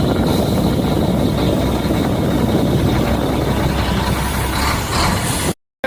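Shacman heavy truck's diesel engine idling steadily; the engine has a misfire ('missing') that is being diagnosed.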